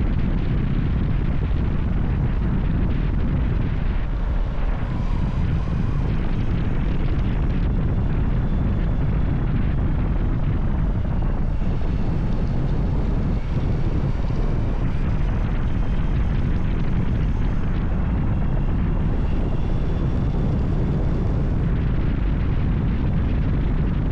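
Motorcycle riding at a steady cruising speed: a constant engine drone mixed with wind and road rush.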